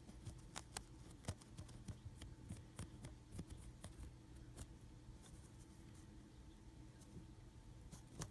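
Faint, irregular little ticks and scratches of a paintbrush being dry-brushed across a cast Hydrocal plaster piece.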